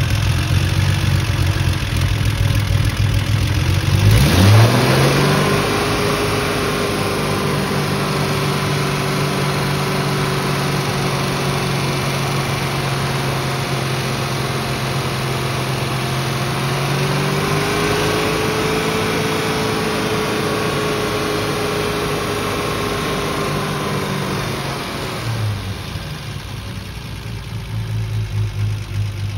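Car engine idling, then revved quickly about four seconds in and held steady at about 3,000 rpm for some twenty seconds during a vacuum-gauge test, before dropping back to idle near the end.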